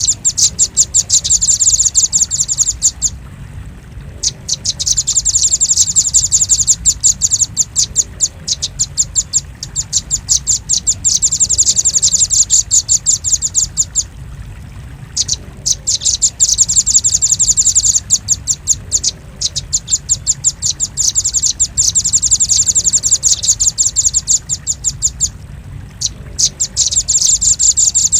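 Velvet-fronted nuthatch calling in long, fast runs of sharp, high chip notes, broken by brief pauses every several seconds: a lure recording used to attract the species.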